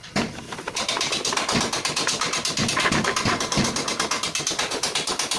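A small engine running close by, with fast, even firing pulses of about ten a second. It starts at the very beginning and keeps a steady pace.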